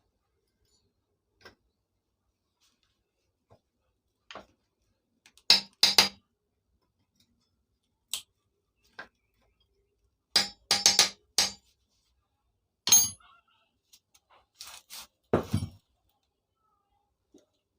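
Sharp metallic knocks and clinks of tools striking metal chainsaw parts, in irregular clusters of two to five blows, while a rusted part that will not come off is being worked loose.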